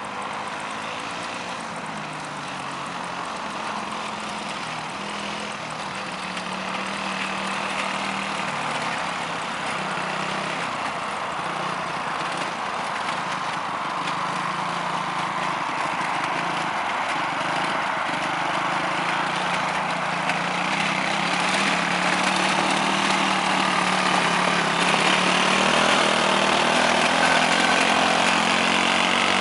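Quad bike engine running at low speed, its pitch wavering a little as the sound grows gradually louder.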